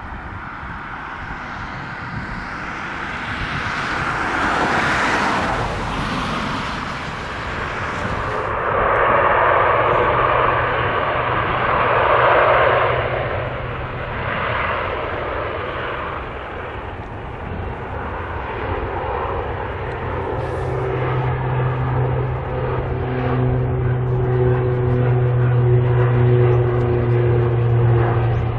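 Turboprop airliner engines and propellers running: first a rush of engine noise that swells and fades about five seconds in, then a steady low propeller drone with higher steady hums above it, growing slowly louder.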